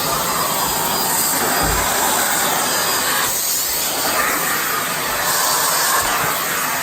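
Miele Blizzard CX1 bagless vacuum cleaner running with a steady, loud rushing hiss of motor and suction air, its tone shifting about three seconds in and again about five seconds in.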